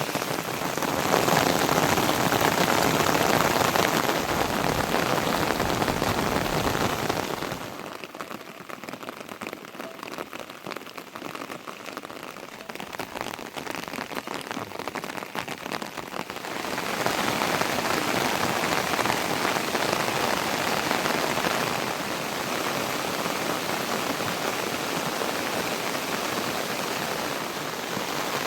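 Rain falling steadily, an even dense hiss. About eight seconds in it becomes much quieter for some eight seconds, then comes back up to full strength.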